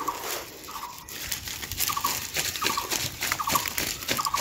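A bird calls over and over, each call a short, rapid rattle, about six in four seconds. Light clicks and rustles sound underneath.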